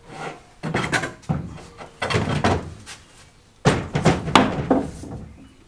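Wooden boards knocking and clattering as they are handled, in three bunches of sharp knocks.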